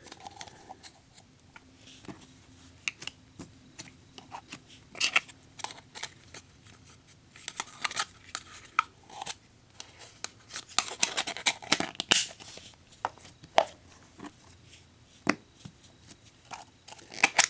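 Hands working Play-Doh into a pizza: irregular small clicks and taps with brief scraping and rustling, denser in the second half.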